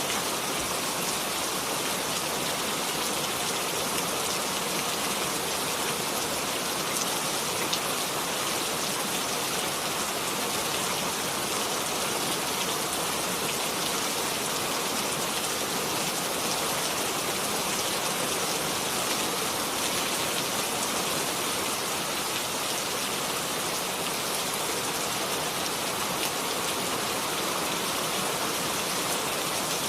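Steady rain falling and pattering on a surface, an even hiss of many drops with no change in strength.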